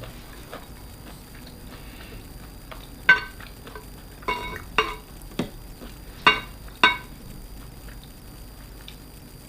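About six short, sharp clinks of hard objects on dishware, spaced irregularly through the middle few seconds, over a faint crackling background.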